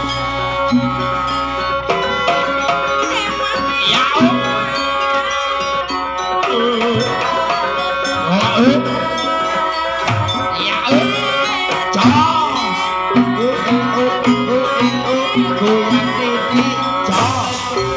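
Live Javanese jaranan music: hand drums beat a running rhythm under steadily ringing gamelan metal percussion, with a wavering, ornamented melody line over the top.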